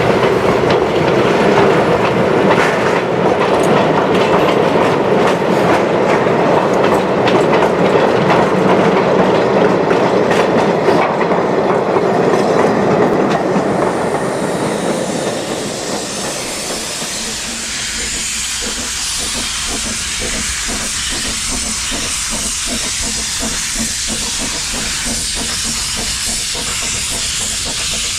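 Narrow-gauge steam train with the double Fairlie locomotive Merddin Emrys: wheels clatter over the rail joints, giving way about halfway through to a steady hiss of steam.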